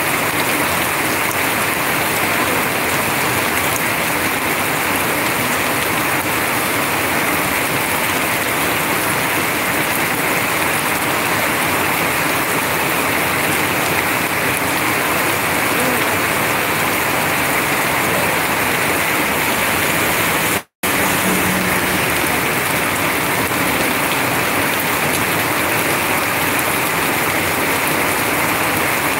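Heavy rain pouring down in a steady, even downpour. The sound cuts out completely for a split second about two-thirds of the way through.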